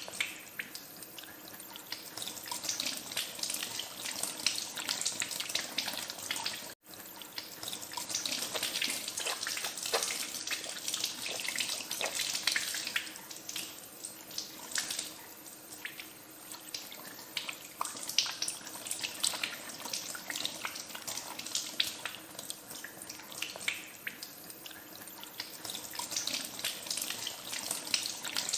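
Tap water running into a sink while hands are washed under it, with irregular splashing. There is a very brief gap in the sound about seven seconds in.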